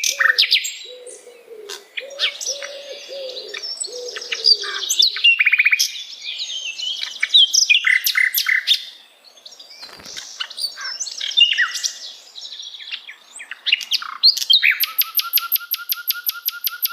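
A sikatan londo flycatcher singing a lively, varied run of rapid chirps and whistles. A lower warbling sound runs under it for the first five seconds, and there is a soft knock about ten seconds in. Near the end the song turns into a fast, even rattle of repeated notes.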